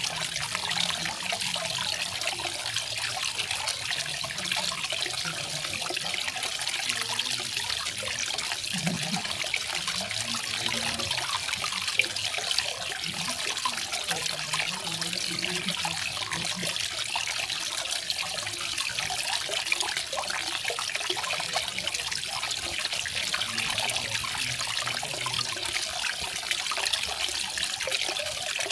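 Small garden waterfall: water falling and splashing steadily, an even hiss of running water.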